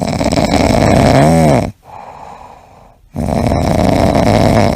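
A pet snoring loudly: two long snoring breaths with a quieter pause between, the first carrying a whistling tone that rises and falls near its end.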